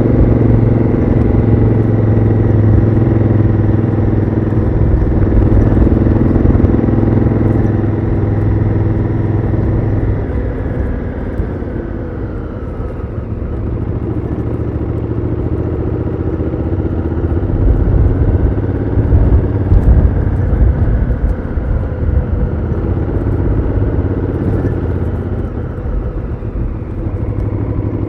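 Honda Africa Twin CRF1000L parallel-twin engine heard onboard through its stock exhaust while riding. The engine note holds steady, drops in pitch and level about 11 seconds in as the throttle eases, then rises again to its loudest point around 18 to 20 seconds in under acceleration.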